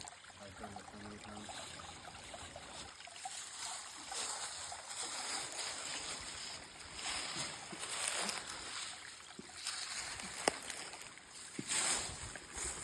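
Water running in a small stream, swelling and easing, with a few light splashes and a sharp knock about ten and a half seconds in.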